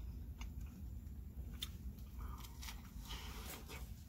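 A person chewing a mouthful of burger with lettuce close to the microphone: irregular soft wet clicks and squishes, over a low steady rumble.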